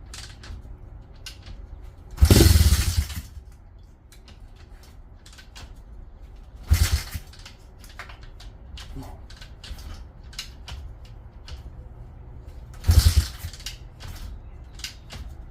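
140cc pit bike engine being kicked over three times, each kick a short burst of the engine turning over that dies at once without catching, the first the longest at about a second. It is a non-running engine primed with brake cleaner and now showing a lot more compression.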